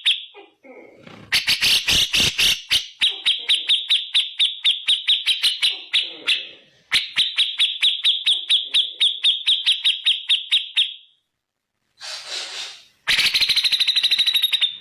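Cucak jenggot (grey-cheeked bulbul) giving its loud 'tembakan' song: long runs of sharp, evenly repeated notes, about four or five a second, with a short pause near the end and then a faster run.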